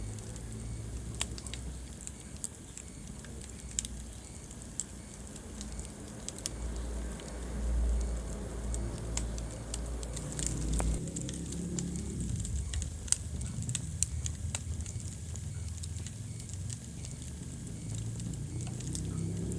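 Wood fire burning in a fireplace, crackling with irregular sharp pops and snaps over a low, steady rumble of flames.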